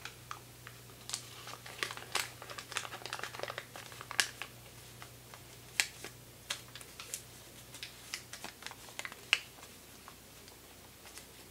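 Origami paper crinkling and crackling as a folded paper boat is slowly turned inside out: a quick run of small sharp crackles that thins out in the second half, with one louder snap a little past the middle.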